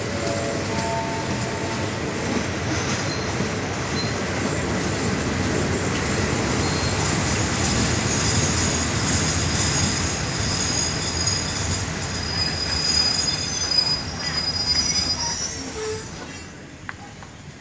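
Passenger train carriage rolling slowly into a station, with a steady rumble and a high squeal as it brakes, heard through an open carriage window. The rumble dies away near the end as the train comes to a stop.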